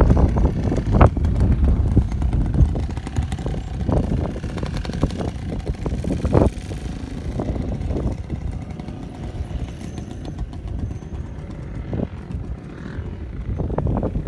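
Dirt bike engine revving in repeated surges, loud at first, fading through the middle and picking up again near the end.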